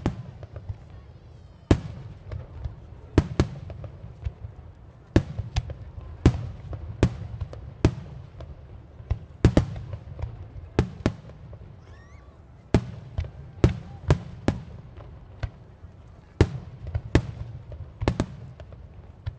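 Aerial firework shells bursting in an irregular series of sharp bangs, about one a second, over a continuous low rumble of booms echoing.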